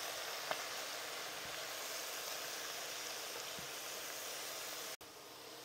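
Jackfruit and pork sizzling in oil in a pot as they are tossed with tongs: a steady hiss that drops off suddenly about five seconds in.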